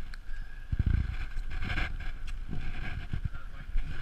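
Wind buffeting the microphone on a mountain bike rolling downhill, coming in uneven low rumbling gusts, with a faint steady high whine underneath.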